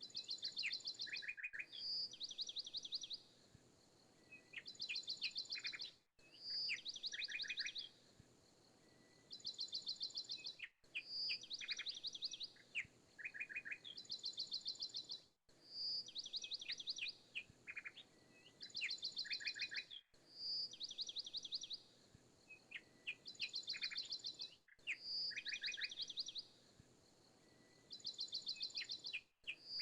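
Recorded birdsong looped as a background track: rapid trilled chirp phrases, the same pattern repeating about every four and a half seconds with a brief cut between repeats.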